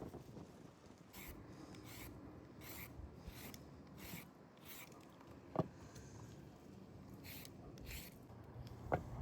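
Faint rhythmic rasping strokes, about three every two seconds, with a pause and then a few more, and two sharp knocks, one about halfway through and one near the end.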